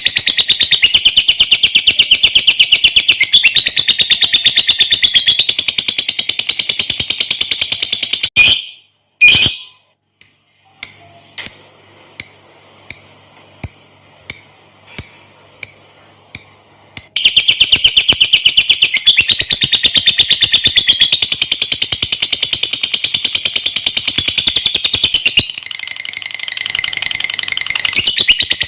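Lovebird singing its long 'ngekek' chatter: a fast, unbroken run of high, rattling notes. About eight seconds in it breaks off into a string of single sharp chirps, each repeating a little faster than once a second. Then the long rapid chatter starts again.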